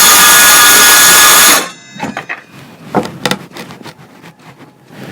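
Power saw running loud with a high whine while cutting, cutting off abruptly about a second and a half in. Afterwards, scattered light knocks and clicks of handling.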